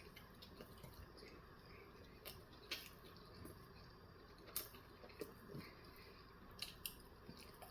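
Faint, wet chewing and mouth sounds from a person eating a steak, egg and cheese bagel sandwich, with a scattering of small sharp clicks and squishes.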